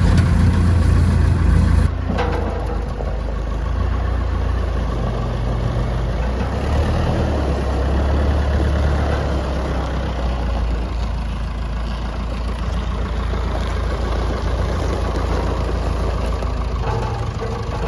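Massey Ferguson tractor backhoe's engine running steadily, with an abrupt change in the sound about two seconds in.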